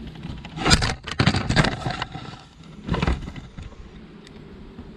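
Scraping and clattering of hand tools and a metal hose clamp being worked onto a hose, in a few short bursts about a second in and again around three seconds.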